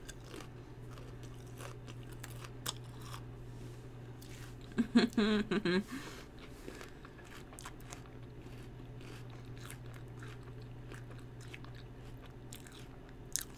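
A person chewing and crunching a small ice cream cone at close range, with many small crisp crunches throughout. A short voiced 'mm' comes about five seconds in.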